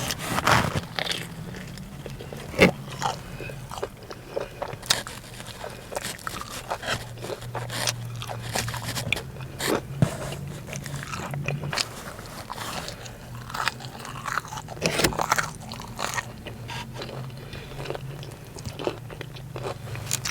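Close-up eating sounds: biting into and chewing breaded crispy chicken tenders, with irregular crunches and crackles, over a steady low hum.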